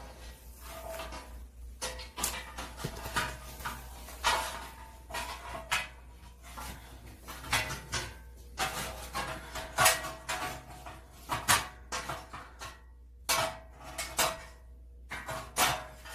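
Roasted sweet potatoes being handled and peeled by hand: irregular crackling and rustling with sharp clicks and knocks.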